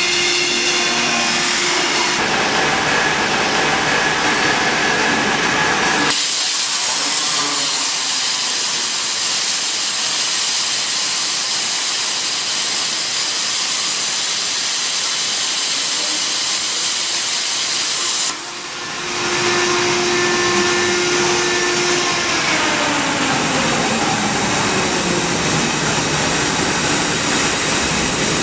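CNC plasma cutting machine working on steel: whining drive motors at first, then from about six seconds in a loud steady hiss of the plasma arc cutting, which stops abruptly about twelve seconds later. After that the drives whine again, some tones falling in pitch.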